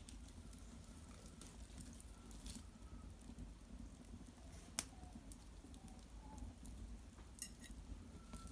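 Cedar wood fire burning in an irori hearth: scattered sharp crackles and pops, with a louder pop about five seconds in and a quick cluster of pops about seven and a half seconds in.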